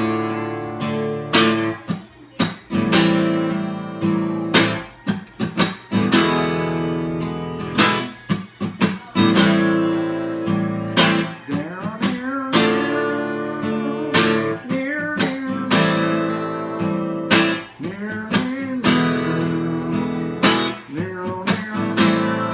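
Acoustic guitar strummed through a slow minor chord progression, D minor, A minor 7, E7 and back to A minor 7, with sharp muted 'chicka' strokes cutting in between the ringing chords.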